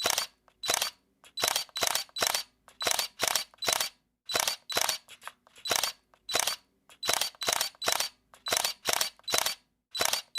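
Camera shutter clicking over and over, often in quick doubles and short bursts of several shots, a few clicks a second with brief pauses between bursts.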